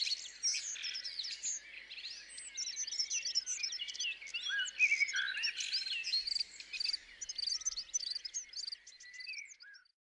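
Several songbirds singing and calling at once, a dense chorus of quick chirps and whistles that fades out just before the end.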